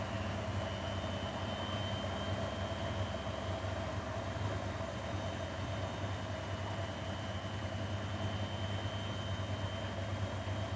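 Grundig washing machine running steadily: an even motor hum with a faint high whine over it, without pauses or rhythm.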